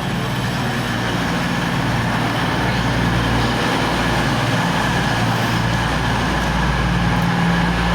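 Diesel passenger train's engines humming steadily, with the sound growing gradually louder as the train draws in.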